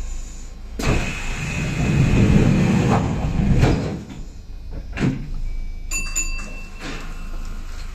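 Kintetsu express train's sliding passenger doors closing: a sudden rush of air and rumble, then two thuds as the doors shut, about four and five seconds in. A few brief clicks and a short tone follow.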